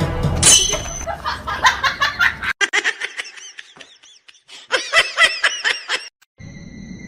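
High-pitched laughter in quick repeated bursts, in two runs with a short pause between them.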